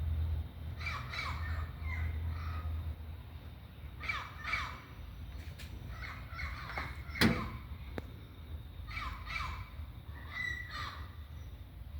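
A bird calling repeatedly, in short groups of two or three calls, with a sharp knock about seven seconds in and a low rumble over the first few seconds.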